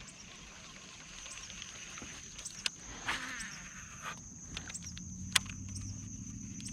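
Insects droning steadily at a high pitch, with a few sharp clicks, the loudest about five seconds in.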